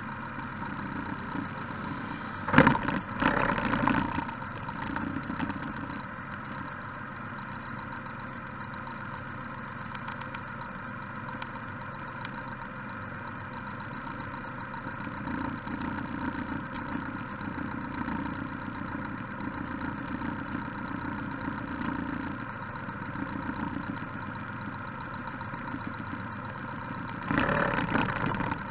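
Can-Am Spyder F3-S's three-cylinder engine idling steadily while the trike stands still. There is a sharp knock and a few louder bursts of noise about two and a half to four seconds in, and again near the end.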